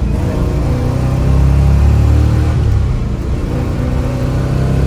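1966 Chevrolet Nova Super Sport's V8 engine running hard under acceleration, heard from inside the cabin. About three seconds in the sound dips briefly as the factory four-speed manual gearbox is shifted up.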